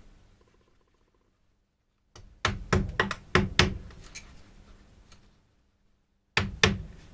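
Hammer blows on a wood chisel cutting into willow: about five sharp strikes in quick succession, a pause, then two more near the end.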